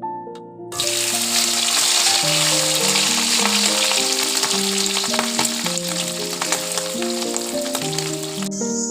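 Food frying in hot oil, a loud steady sizzle that starts suddenly just under a second in and cuts off abruptly near the end.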